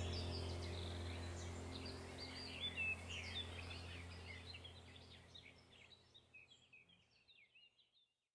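Small birds chirping, many short quick calls over a steady low hum, all fading away within the first seven seconds.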